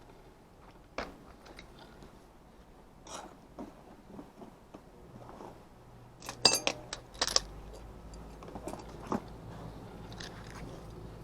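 Scattered clicks and metallic clinks of tools and parts being handled while an HVAC unit is worked on, with a louder cluster of ringing clinks about six and a half seconds in. A low steady hum starts just after it.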